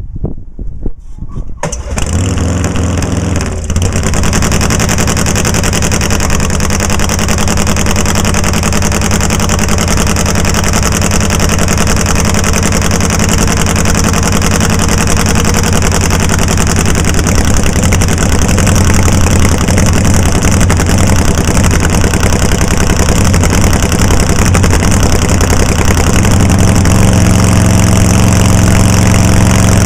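Nitro Harley drag bike's V-twin engine firing up for its first start of the season: it catches suddenly about two seconds in and runs loud and steady, getting a little louder near the end.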